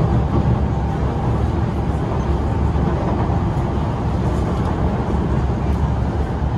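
Singapore MRT train running at speed, heard from inside the carriage: a steady low rumble of wheels on rail and running gear.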